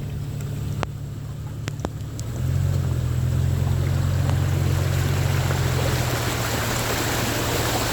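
A vehicle's engine running, then pulling harder about two and a half seconds in as it drives into floodwater. A rushing wash of water spray builds alongside it. A few light clicks come in the first two seconds.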